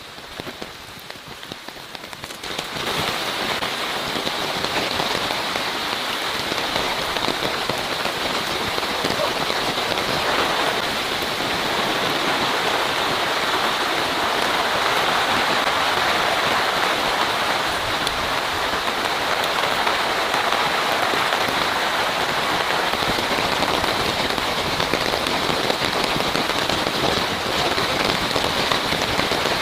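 Heavy rain falling steadily, lighter for the first couple of seconds and then a dense, even downpour.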